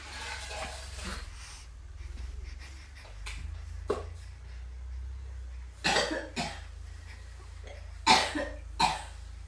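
Three-month-old baby giving short cough-like bursts: two together about six seconds in and two more about eight seconds in, the later pair the louder.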